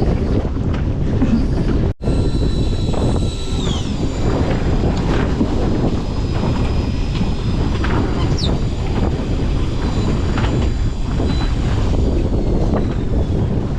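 Strong wind buffeting the microphone over the running engine of a small fishing boat in rough sea. About two seconds in the sound briefly drops out, and a faint high steady whine then joins, dipping in pitch soon after.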